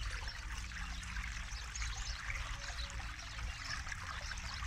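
Forest river flowing, a steady babble and trickle of running water with a low rush underneath.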